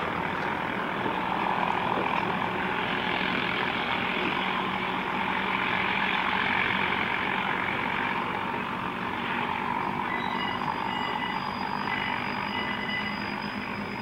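Short freight train moving slowly away through a station yard, a steady running rumble. About ten seconds in, faint high-pitched wheel squeal starts as the wheels take the curved track.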